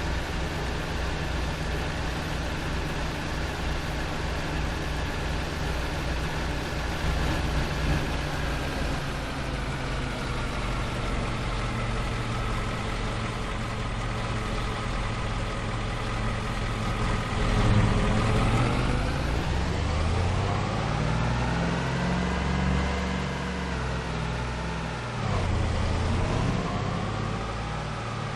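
Ford Ranger pickup truck's engine running while the truck is driven. Its pitch sinks slowly, then about two-thirds in it climbs and falls several times as the engine is revved up and eased off.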